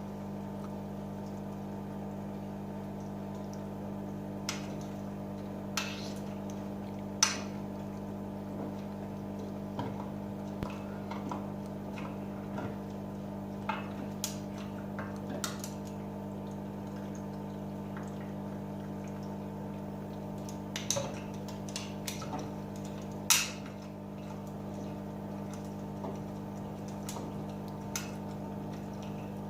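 AEG Öko-Lavamat 88840 washing machine in its wash cycle: a steady motor hum with water sloshing and splashing in the drum and irregular sharp clicks and clinks.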